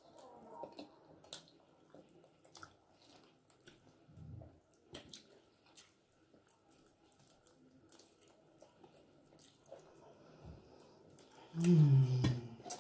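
Wet chewing, sucking and lip-smacking of people eating chicken off the bone by hand, with scattered small mouth clicks. Near the end comes a short, louder hum of the voice.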